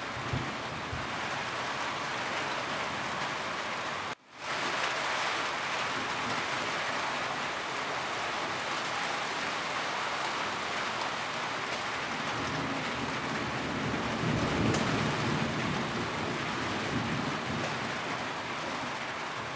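Steady rain falling on a roof. About four seconds in the sound cuts out for a moment and fades back in, and a low rumble swells up about two-thirds of the way through.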